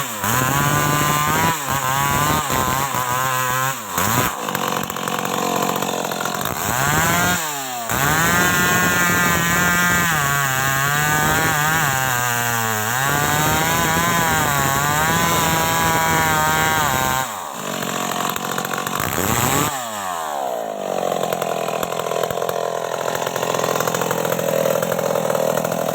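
Stihl MS 381 two-stroke chainsaw running, revved up and down over and over with several brief drops in throttle. About two-thirds of the way through it settles into a rougher, steady sound as the chain bites into the wood under load.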